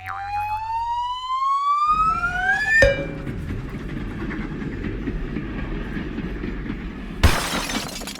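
Sound effects: a whistling tone rising steadily in pitch for about three seconds and ending in a hit, then a long low rumble, with a short crash near the end.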